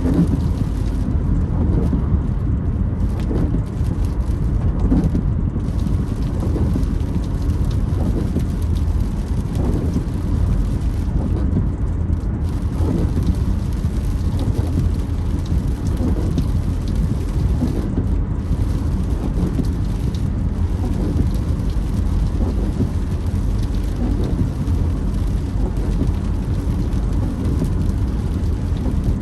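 Rain drumming on a moving car, with steady road and tyre noise. The windscreen wipers creak across the glass at a regular beat.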